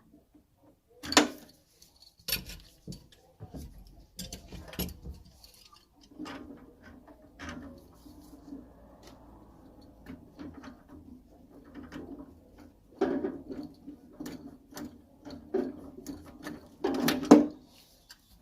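Irregular clicks and knocks of hand tools and metal parts being handled while a combi boiler is taken apart, the loudest about a second in and near the end, over a steady low hum that starts about six seconds in.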